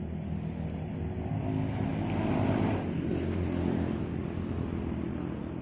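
Road traffic: a motor vehicle's engine running as it passes on the nearby road, a steady low hum that swells slightly around the middle.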